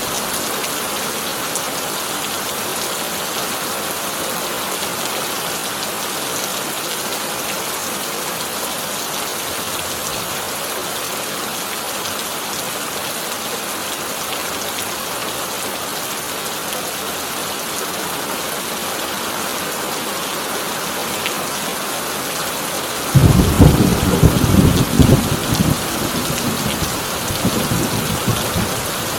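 Heavy rain on a corrugated tin roof, a steady hiss. Near the end thunder breaks in suddenly, a loud rumble with sharp cracks that dies down over a few seconds.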